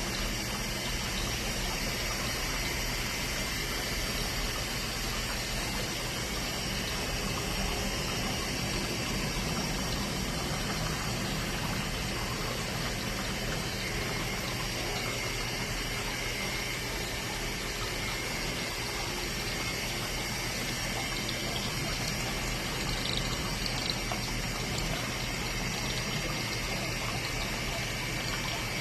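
A Grownfarm sprout-growing machine running, its small pump circulating water that runs and splashes steadily over the sprouts, with a steady low hum underneath.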